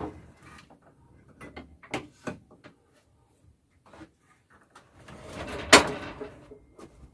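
Workshop equipment being shifted by hand: scattered knocks and clicks, then a short rumble from about five seconds in with a loud clunk in the middle of it.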